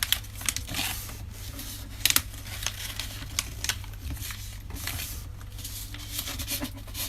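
Sheets of paper being folded by hand into thin strips: irregular rustling and crinkling with occasional sharp creasing clicks.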